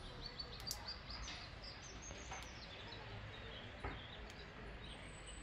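Faint birds chirping in short repeated calls over a steady low background noise, with a few soft clicks.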